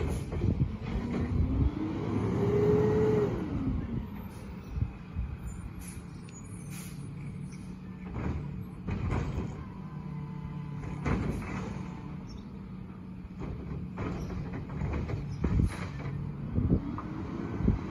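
Side loader recycle truck running, its engine note rising and falling twice as it revs. Sharp clunks and knocks come in between.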